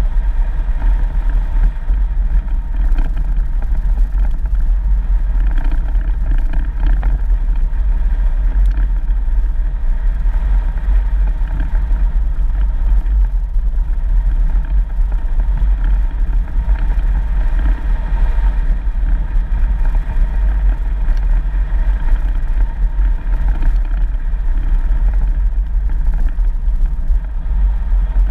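4x4 vehicle driving on a dirt country road: a steady, loud low rumble of engine and tyres that keeps on without change.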